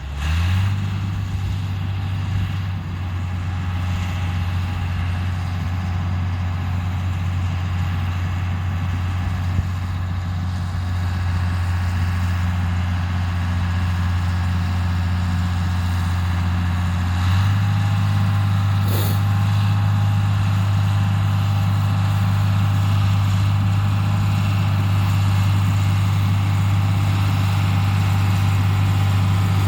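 Bulldozer's diesel engine coming up to speed, then running steadily at a constant throttle. About two-thirds of the way through it steps up slightly in pitch and gets a little louder.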